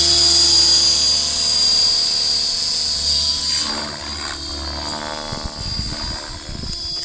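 Radio-controlled model helicopter in flight, a steady high whine from its motor and rotors that fades as it moves away.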